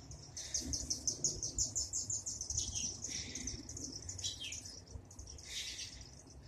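Small birds chirping: a fast run of high chirps in the first two seconds or so, then a few scattered falling calls.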